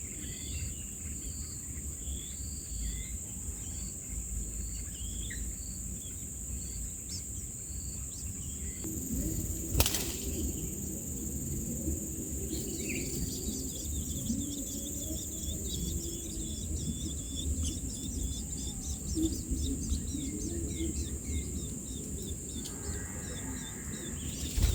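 Small birds chirping over a steady high insect drone. A sharp click comes a little before halfway. After it, a dense run of rapid high chirps continues to the end over a low rumble.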